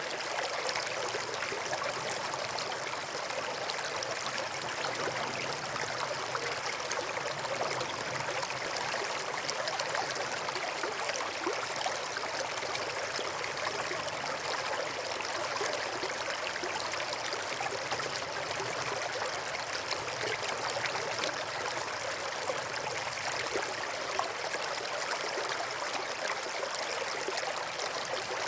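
Small stream of running water flowing and trickling steadily, an even rushing babble with no pauses.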